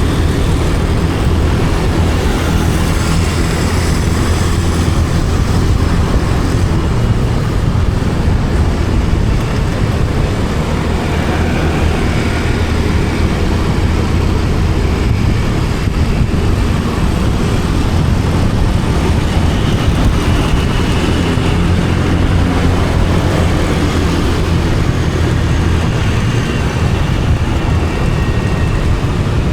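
Motorcycle on the move: steady engine and road noise with heavy wind on the microphone, loud and even throughout.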